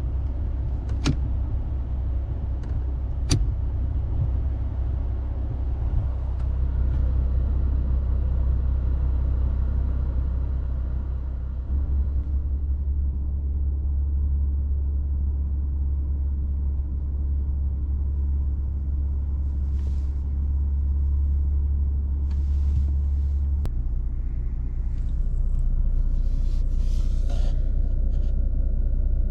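Nissan Skyline Coupe (V36) driving, heard as a steady low rumble of engine and road noise that shifts in tone twice. Two sharp clicks come in the first few seconds.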